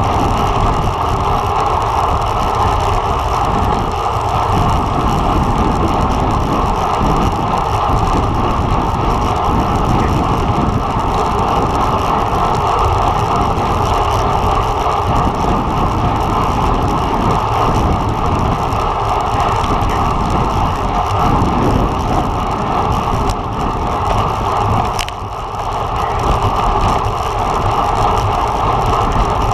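Steady rush of wind and road noise from a road bike ridden at race speed, with a brief lull about 25 seconds in.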